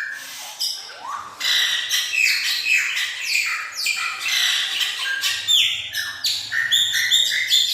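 Chopi blackbird (pássaro-preto) singing a fast, continuous run of short, loud notes, most of them falling in pitch.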